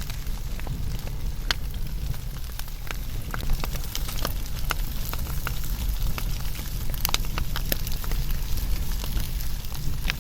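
Wood fire burning: a steady low rumble with sharp, irregular crackles and pops, several a second.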